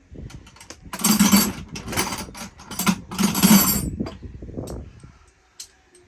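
Tools and metal parts clattering and scraping in four or five loud bursts over the first few seconds, then a few light clicks.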